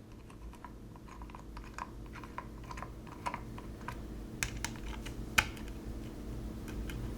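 Scattered light clicks and taps of small hardware being handled: washers and binding barrels being threaded by hand onto hex-head bolts, with one sharper click about five seconds in, over a faint steady hum.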